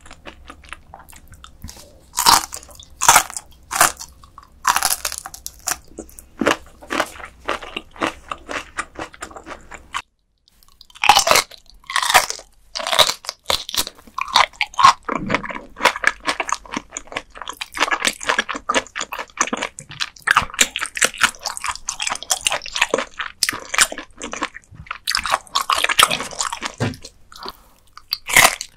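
Close-miked crunching and chewing of raw dotted gizzard shad sashimi eaten bone-in, the small bones giving crisp crunches between wetter chews. The sound drops out briefly about ten seconds in, then the crunching goes on.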